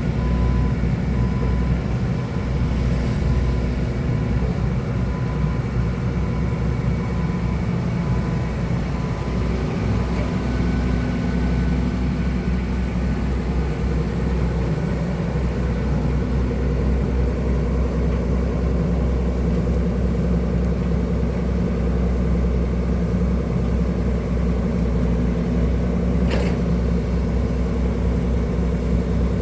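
Excavator's diesel engine running steadily, with a deep, even drone throughout. A faint tone comes and goes in the first several seconds.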